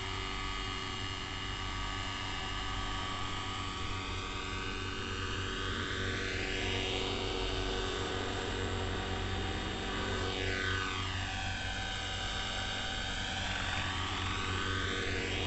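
Neo Caliber 50 radio-controlled helicopter in flight: its carbureted glow engine and rotor give a steady, high-revving drone, run at raised rotor speed for the wind, with slow sweeping shifts in tone as it moves.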